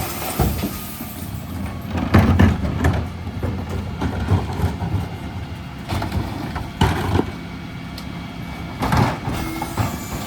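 Dennis Elite refuse truck's engine running steadily, with a series of clunks and clatters coming from the truck and bins about two, six, seven and nine seconds in.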